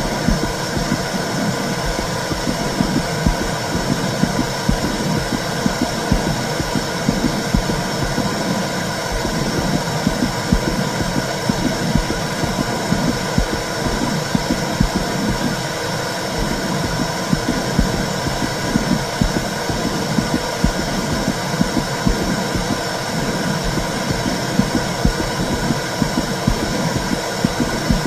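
Womb sound for soothing a baby: a steady, muffled whooshing rumble with a regular low throbbing pulse like a heartbeat.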